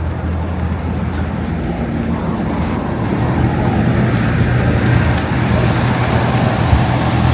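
Road traffic with a motor vehicle engine running close by: a steady low engine hum over traffic noise, swelling a little about halfway through.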